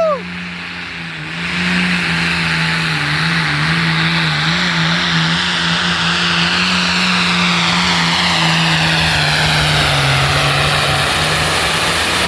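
1978 International 1486 Super Farm pulling tractor's diesel engine at full power during a pull. It is loud from about a second and a half in, its pitch wavering slightly, and it drops away sharply at the end.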